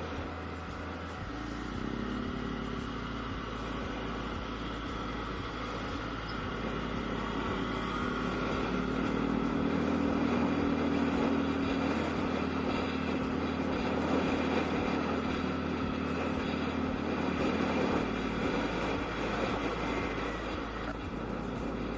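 Yamaha Aerox scooter running on the road with wind noise on the microphone, its engine note strengthening toward the middle.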